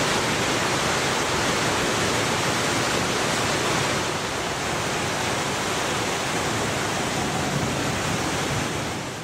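Floodwater rushing in a steady, dense torrent, fading a little near the end.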